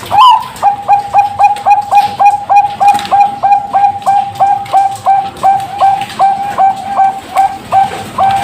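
Bangkok-line zebra dove (perkutut) singing: a fast, even run of about twenty short, clipped coos on one pitch, roughly two and a half a second. It opens on a slightly higher note and draws out into a longer note at the very end.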